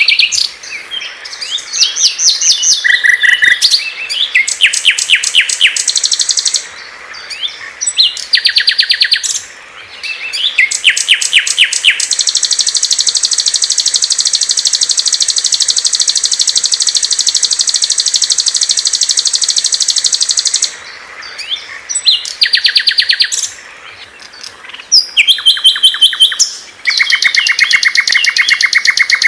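Small songbirds singing in a recorded sequence of different rapid, high chirping and trilling phrases, with short pauses between them. Near the middle one long, unbroken high trill runs for about eight seconds.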